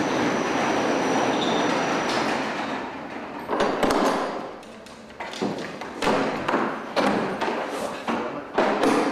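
A steady rushing noise, then a run of irregular thumps and knocks.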